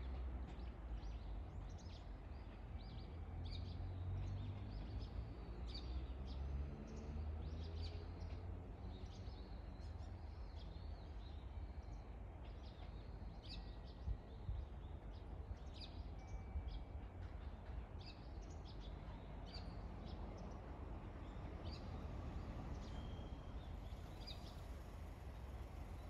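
Small birds chirping over a low rumble as a blue Odakyu MSE Romance Car electric train pulls away into the distance, with a faint rising hum in the first several seconds.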